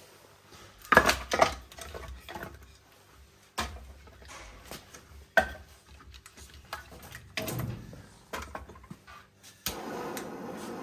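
Wood fire crackling, with irregular sharp pops, the loudest about a second in. Near the end a steady rushing noise comes in.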